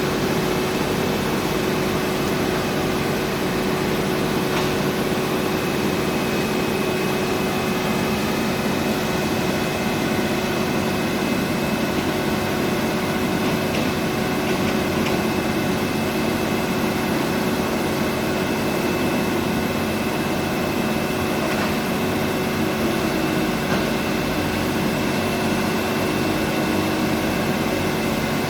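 Diesel engine of heavy earthmoving machinery running steadily under load, with a thin high whine over the engine note.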